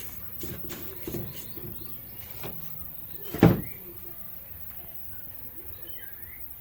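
Blender parts being handled: a few light clicks and knocks, then one loud knock about three and a half seconds in.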